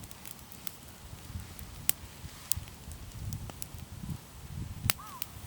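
Wood fire burning in a small fire pit, crackling with scattered sharp pops, two of them louder, about two and five seconds in. Near the end a bird starts a call of short rising-and-falling notes, repeated about twice a second.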